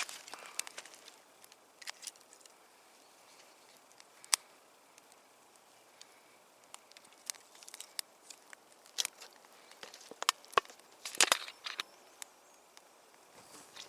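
Campfire crackling: irregular sharp snaps and pops from burning wood, with a louder cluster of cracks about eleven seconds in.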